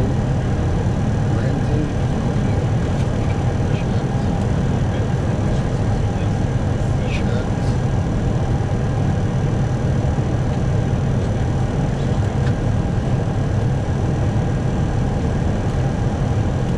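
Steady flight-deck noise of an Airbus A321 on approach: a constant low drone of airflow and engines heard inside the cockpit, with a few faint ticks.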